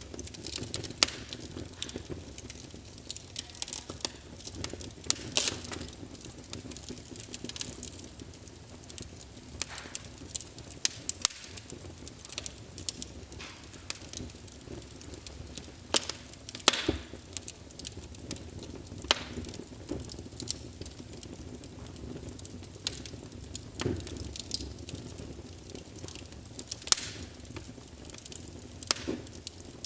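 Wood fire in a fireplace crackling, with irregular sharp pops and snaps over a steady low rush of the flames.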